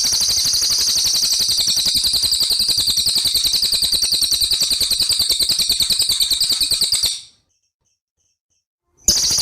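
Songbird's fast, even trill, about ten notes a second, held without a break. It cuts off abruptly about seven seconds in, and after a short silence the same trill starts again near the end, as a looped recording.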